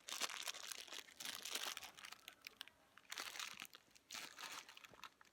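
Plastic food packaging crinkling in irregular bursts as it is handled.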